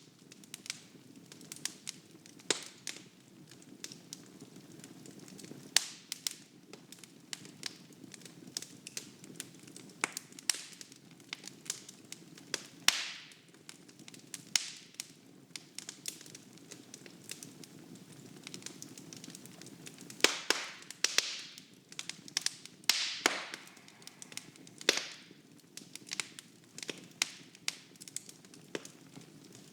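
Wood fire burning in a fireplace, with irregular sharp crackles and pops over a soft steady rumble of flame; a cluster of louder pops comes in the second half.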